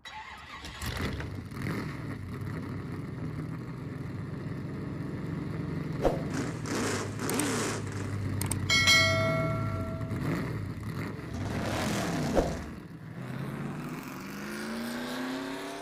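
Racing-car engine sound effects: engines running and sweeping past in pitch, with a held high tone for about a second and a half around nine seconds in, and an engine revving up near the end.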